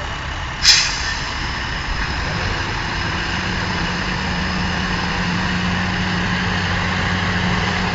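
A large engine running steadily, with one sharp crack less than a second in.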